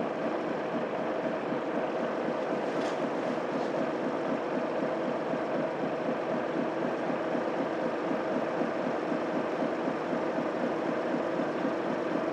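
Mitsubishi Fuso Aerostar city bus with its 6M70 straight-six diesel running steadily on the road: an even engine and road drone with no change in pace. Two faint short clicks come a little over half a second apart, about three seconds in.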